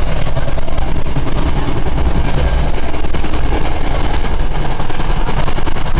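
Commuter rail coach riding at speed, heard from inside the car: a loud steady rumble of the wheels on the track with rapid, irregular rattling and clicking. It rattles enough to sound like the wheels are going to fall off.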